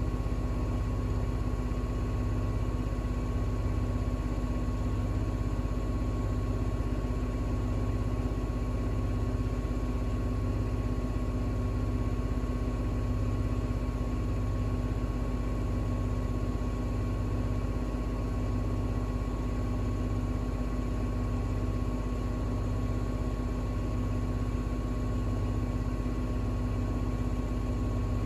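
Bosch WAX32GH1 front-loading washing machine in its intermediate spin at about 1200 rpm: a steady motor and drum hum with a low throb about once a second. A thin high whine fades out near the end.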